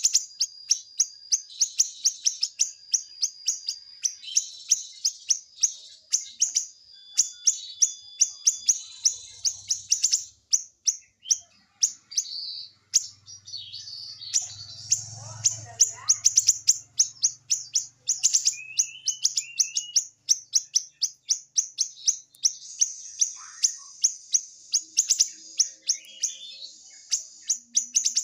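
Green leafbird (cucak ijo) singing a dense 'siri-siri' song: rapid sharp high notes fired about four a second over continuous high trilling, with short gliding phrases woven in.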